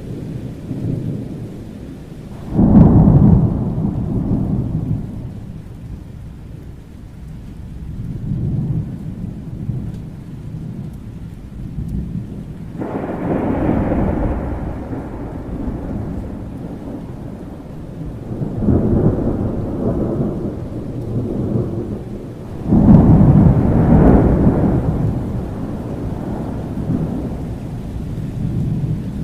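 Thunderstorm: steady rain under repeated rolls of thunder. Loud claps hit suddenly about 3 seconds in and again near 23 seconds, with other rumbles swelling up and dying away between them.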